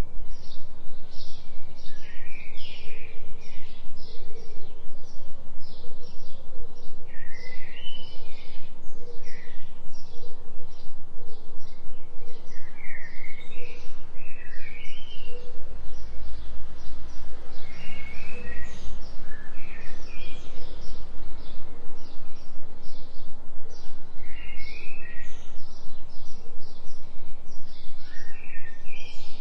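Birds singing, with rapid repeated high chirps and occasional warbled phrases, over a steady low droning tone that pulses quickly and evenly: a 3 Hz delta binaural beat.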